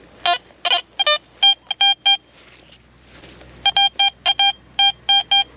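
Garrett Vortex VX9 metal detector sounding target tones over a buried find. A few short beeps of shifting pitch come in the first second, then groups of short beeps at one steady pitch repeat as the coil passes back and forth over the target.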